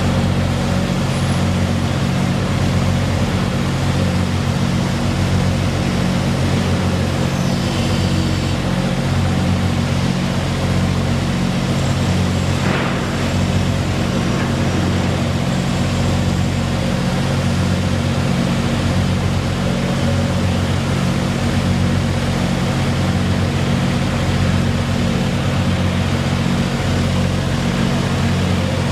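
Steady low machine drone with a regular pulsing beat, like a large engine running.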